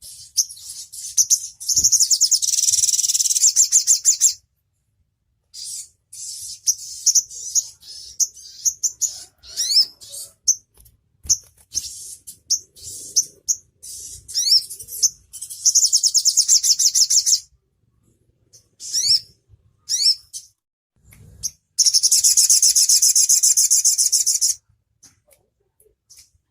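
Olive-backed sunbird (konin) singing: rapid high-pitched trills, three long ones of a few seconds each, with short chirps and quick sweeping notes between.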